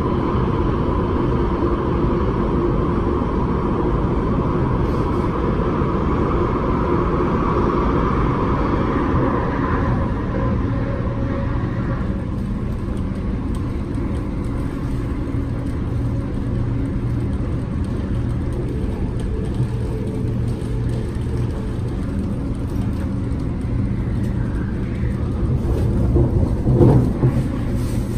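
MTR West Rail line train running at speed, heard from inside the carriage: a steady low rumble of wheels and running gear, with a higher motor whine that fades out about ten seconds in. A brief louder knock comes near the end.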